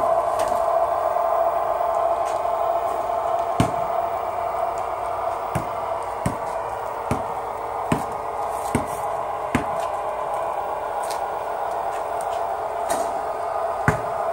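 An HO-scale DCC sound decoder playing a GE C30-7 diesel locomotive's engine sound through its small speaker, a steady drone. About a dozen sharp, irregular clicks from the model's wheels running over the track sound on top of it.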